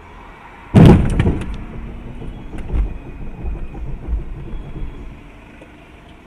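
Car collision recorded from inside a car: a sudden loud crash under a second in, followed by a few sharp knocks and irregular rattling and thumps that fade over the next few seconds, over steady road noise.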